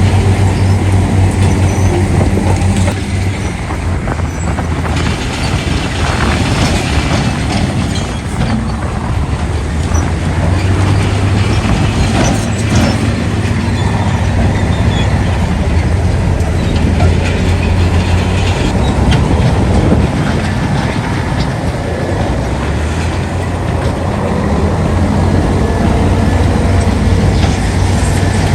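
Heavy diesel earthmoving machinery, such as a crawler bulldozer or excavator, working: a low engine hum that drops and rises again as the load changes, with the clatter and squeal of steel crawler tracks.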